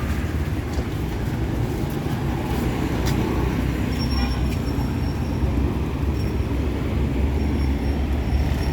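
Street traffic: a motor vehicle engine running close by, a steady low rumble, with a faint thin high whine in the second half.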